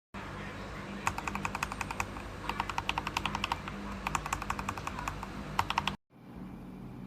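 Mechanical keyboard with Gateron Milky Yellow Pro linear switches being typed on: rapid runs of keystroke clacks with short pauses between them. The typing cuts off abruptly about a second before the end, leaving a faint low hum.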